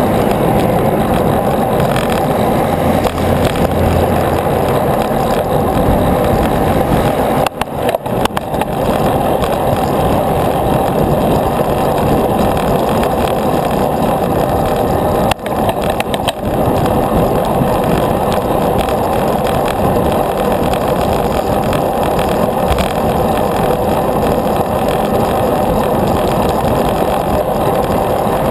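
Steady rushing noise of riding a bicycle, wind and road noise on the camera's microphone, with a brief drop about eight seconds in and again about sixteen seconds in.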